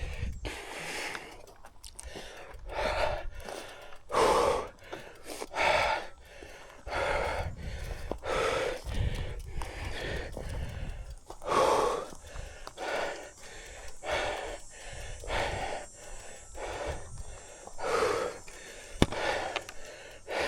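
A man breathing hard, close to the microphone, with a loud breath in or out about once a second, the heavy breathing of exertion.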